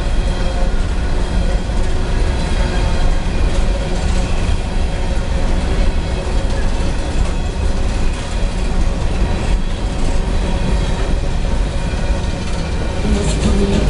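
A long CSX coal train rolling past close by: the steady, unbroken noise of its cars on the rails.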